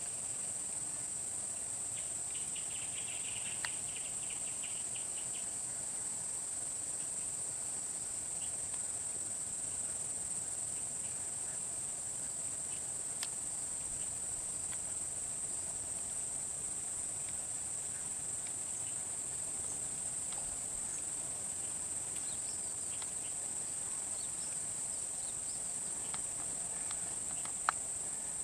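A steady, high-pitched chorus of insects, crickets or the like, with a brief burst of faster pulsed chirping a few seconds in and a single sharp click near the end.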